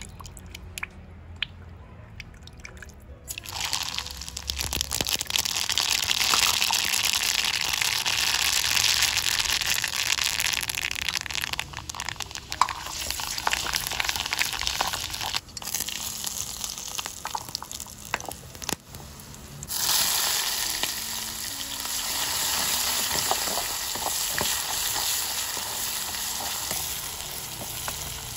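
Ingredients frying in hot coconut oil in a metal wok: a few light clicks at first, then a loud, steady sizzle starts about three seconds in. It dips briefly and surges again about twenty seconds in as more goes into the pan.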